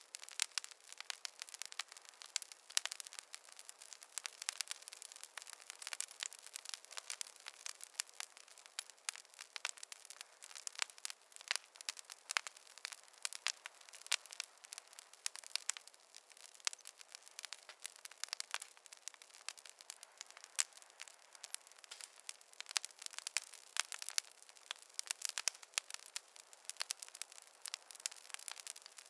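Campfire burning, wood crackling and popping in quick, irregular snaps over a soft hiss.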